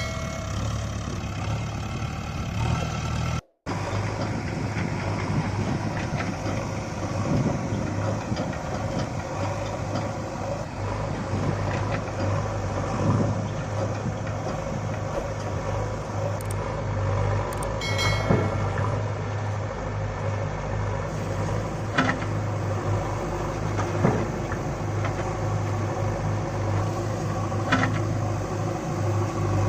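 Heavy machine engine running steadily, JCB loader or truck working, with a few short sharp clanks now and then. The sound drops out briefly a few seconds in.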